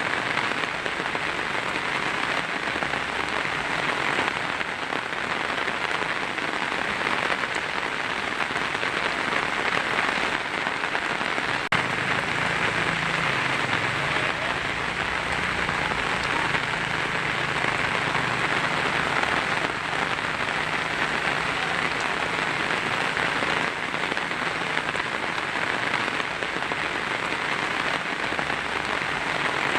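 Heavy, steady rain drumming on a tin roof. About twelve seconds in, a low rumble joins underneath for roughly ten seconds.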